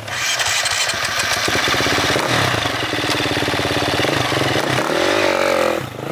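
Off-road motorcycle engine running at close range, its revs rising and falling briefly near the end.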